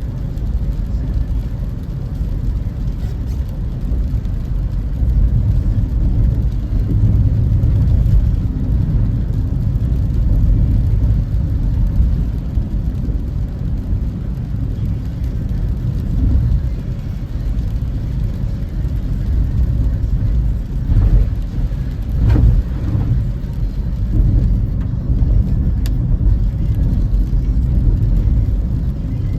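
Steady low rumble of tyre and engine noise inside a moving car, with a few brief louder moments about three quarters of the way through.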